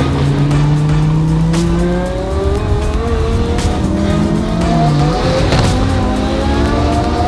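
Lamborghini Huracán V10 accelerating hard, its pitch climbing through the gears with two drops at the upshifts, and a few sharp exhaust pops.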